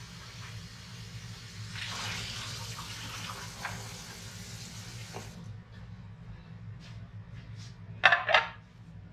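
Kitchen tap running into a sink as apple slices are rinsed, the flow getting stronger about two seconds in and then shut off at about five seconds. Near the end, a brief loud double clatter.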